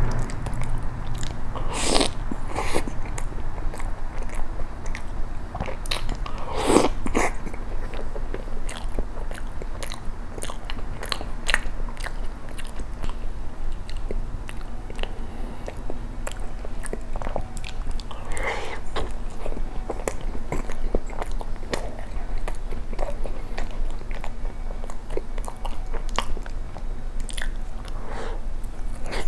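Close-miked eating sounds: a person biting into and chewing soft matcha cream bread, with a steady run of wet mouth clicks and smacks. Louder bites or mouthfuls come about 2, 7 and 18 seconds in.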